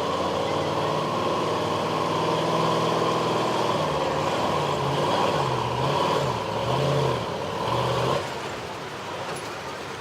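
Stock pickup truck's engine at full throttle, pulling a weight-transfer sled. It runs at a steady high note, then from about halfway the revs rise and fall over and over as the truck bounces and the tyres hook and slip. Near the end the engine note drops away suddenly as the throttle is let off.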